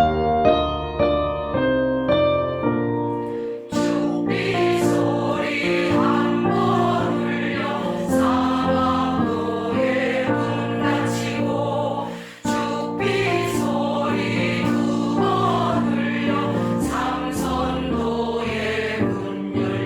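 Choir singing in unison with piano accompaniment. The piano plays alone at first, and the voices come in about four seconds in and break off briefly near the middle.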